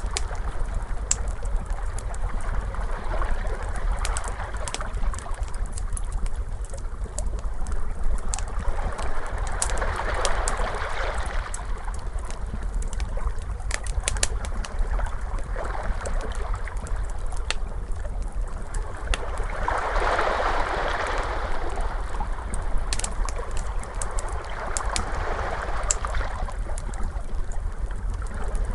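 Ocean waves washing in slow swells over a low steady rumble, with a wood fire crackling in many small sharp pops throughout.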